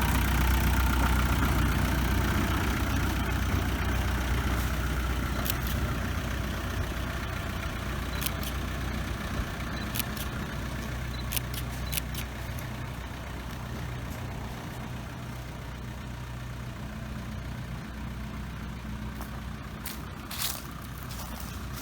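Engine of a narrow-gauge sugar-railway vehicle running steadily, growing quieter as it moves away. A few sharp clicks come through the middle and near the end.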